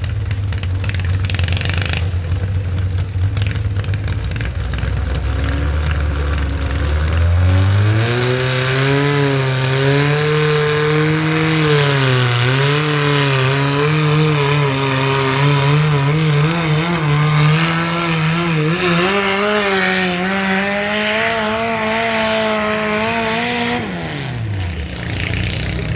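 Modified garden tractor engine pulling a weighted sled: it runs low and steady at first, then about seven seconds in the revs climb and stay high under load with a wavering pitch, and near the end the engine speed drops away quickly as the pull finishes.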